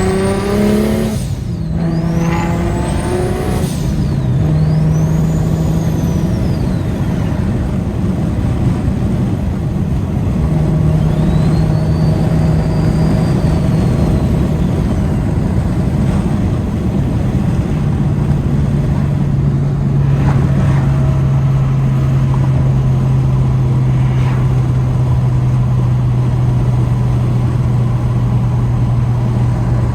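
BMW N54 3.0-litre inline-six with a DocRace single-turbo kit and a straight-piped exhaust, heard from inside the cabin. It accelerates hard and shifts about a second in, then makes a few more short pulls with a high turbo whistle rising and falling, and settles into steady cruising with a constant low drone.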